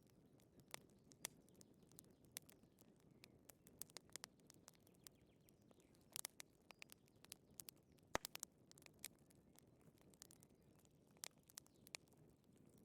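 Fireplace fire crackling: scattered sharp pops and snaps at an uneven pace over a faint low rush, with the loudest snap about eight seconds in.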